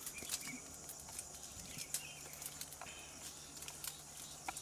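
Quiet outdoor background: scattered light clicks and rustles, with a few faint short chirps.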